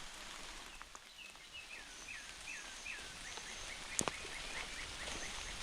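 A songbird singing: a run of about five whistled notes that each slide downward, then a quicker series of short notes, over a faint steady hiss of rain. A single sharp click sounds about four seconds in.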